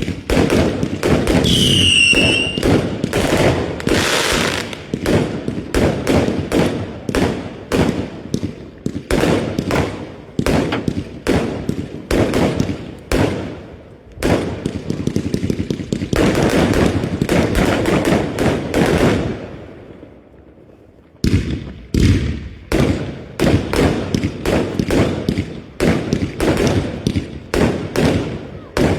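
Fireworks going off: a dense run of bangs and crackling, with a falling whistle about two seconds in. The bangs briefly stop near the end, then start again.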